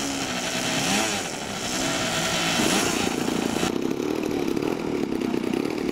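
Small RC model airplane engines buzzing, their pitch swooping up and down as they rev while taxiing. About two-thirds through, the sound changes abruptly to a steadier, lower buzz.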